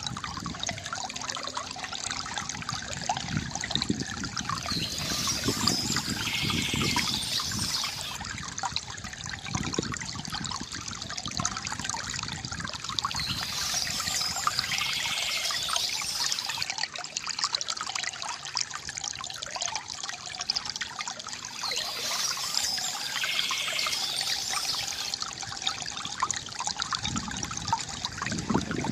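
Water trickling and gurgling steadily from a bamboo fountain.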